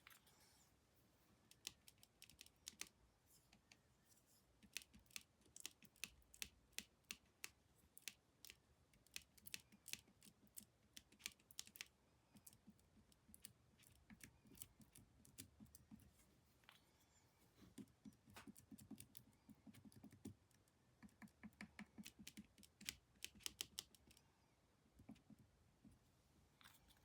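Faint, irregular light taps and scrubbing of a paintbrush dabbing paint onto a canvas, in quick clusters.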